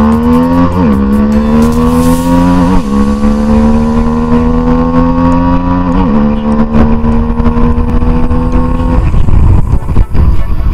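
Bajaj Pulsar RS200 single-cylinder engine heard from onboard, accelerating through the gears: its pitch climbs, then drops at three upshifts about one, three and six seconds in. About nine seconds in the engine note falls away, leaving a rushing noise.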